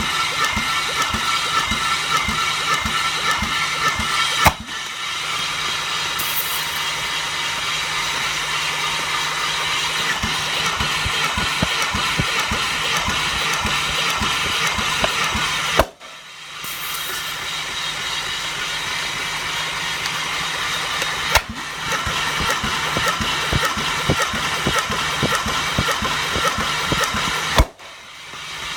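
Starter motor cranking the Chevrolet Epica's X20D1 2.0-litre straight-six without it firing, for a compression test. It runs in several long cranking runs, each ending with a click and a brief drop before the next.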